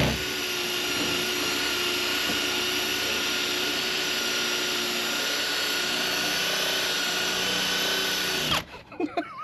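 Drill spinning a rubber decal-eraser wheel against the truck's paint: a steady whine with several held tones that cuts off sharply near the end. The adhesive under it is smoking more than it normally does.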